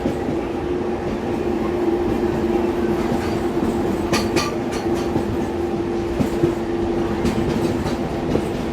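Indian Railways passenger train running along the track: a steady rumble with a continuous hum, and a few sharp clicks of the wheels over rail joints about four seconds in.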